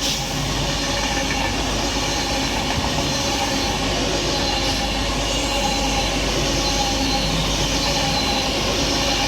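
Avanti West Coast Class 390 Pendolino electric train passing through the station: a steady rush of wheel and rail noise.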